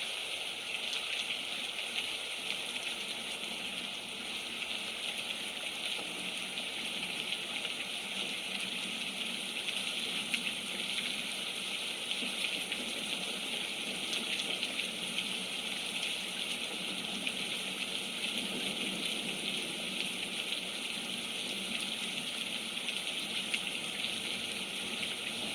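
Steady rain falling, an even continuous hiss with a fine patter of drops.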